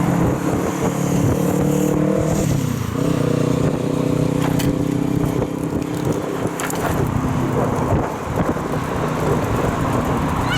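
A motor vehicle engine running with a steady hum that drops and shifts in pitch about two and a half seconds in, over rumbling noise, with a few sharp clicks around the middle.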